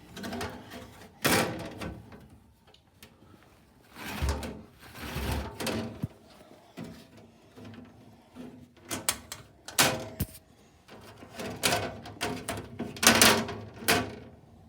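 Knocks, clicks and rattling handling noise as a box fan's back panel is fitted back on, with a few sharp louder clacks spread through.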